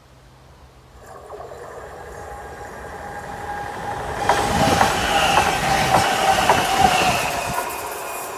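Electric passenger train approaching and passing at speed: a rising rush of wheels on rail with sharp clicks over the rail joints and a steady high whine, loudest about four to seven seconds in, then easing as it goes by.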